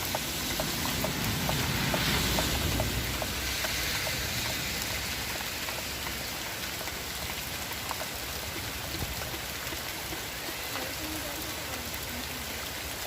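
Steady rain falling on surfaces, swelling a little about two seconds in, with a quick run of light ticks over the first few seconds.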